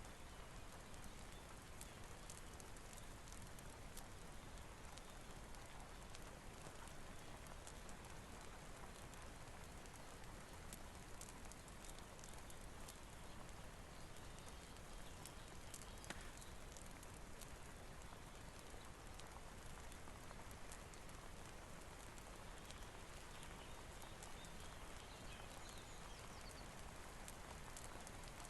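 Steady rain in an even hiss, with scattered small sharp ticks of drops and crackles.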